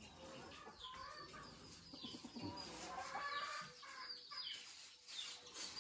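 Faint calls of farmyard birds: short scattered chirps, with a hen clucking.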